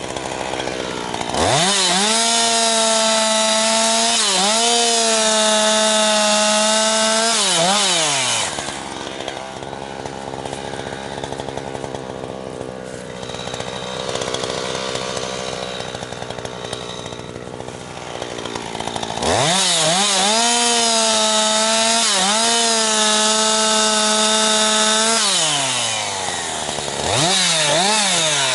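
Jonsered 2156 two-stroke chainsaw, its Walbro HDA199 carburettor freshly rebuilt, revving up to full throttle and cutting firewood twice, the pitch dipping slightly under load, dropping back to idle between cuts, then a few short blips of the throttle near the end.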